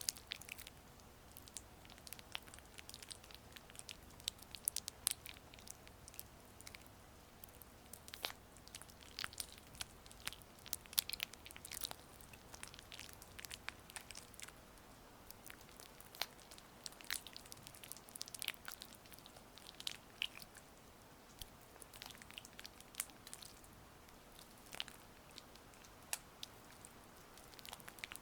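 Gua sha stone gliding over oiled skin close to the microphone, making soft, irregular wet clicks and sticky crackles.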